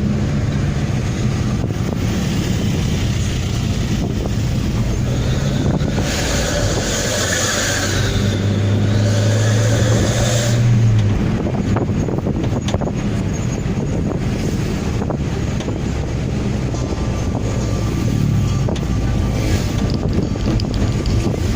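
Daihatsu Gran Max exhaust running with a steady low drone, the sound likened to a night bus. It swells louder from about six seconds in and drops back just after eleven seconds.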